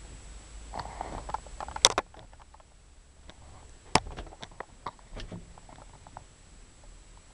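Handling noises: rustling and scraping, with two sharp knocks, about two seconds and four seconds in, and scattered small clicks after.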